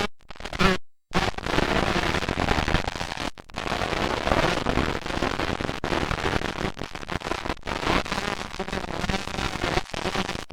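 125cc two-stroke motocross bikes racing, a dense crackling din of several engines. It cuts out briefly about a second in.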